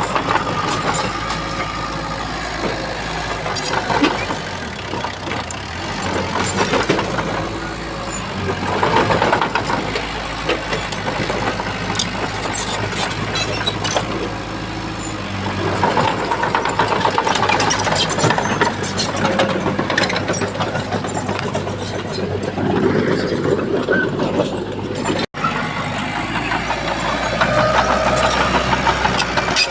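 Diesel engine of a Shantui crawler bulldozer working, its note rising and falling under load, with scattered clanks. The sound cuts out for an instant about 25 seconds in.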